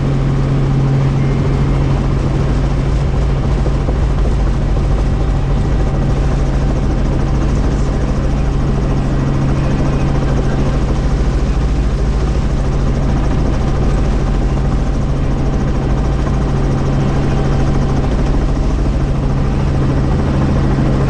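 Helicopter running steadily, its engine and rotor giving a loud, constant low hum over a rushing noise.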